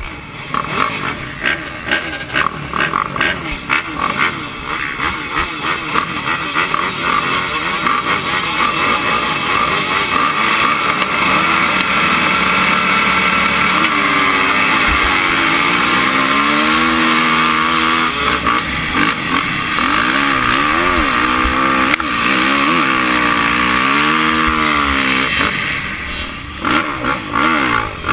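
Motocross dirt bike engines racing, the pitch rising and falling over and over as the throttle is opened and shut and the gears change, clearest from about halfway through.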